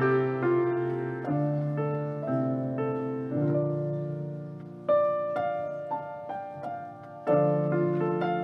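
Soft, slow piano music: chords struck about once a second and left to ring and fade, with a few louder chords, one about five seconds in and another near the end.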